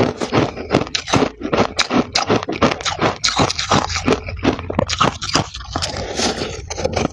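Freezer frost (white ice) being scraped and crunched, in quick irregular crunches several times a second without pause.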